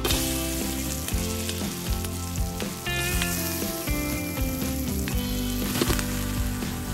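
Hot oil sizzling in a wok as aromatics and then chopped vegetables are dropped in, with a few knocks as they land. Background music plays underneath.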